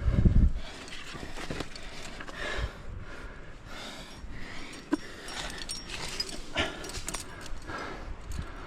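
A climber's heavy breathing, in swells about every second, with climbing hardware jangling and clicking. A loud low thud right at the start.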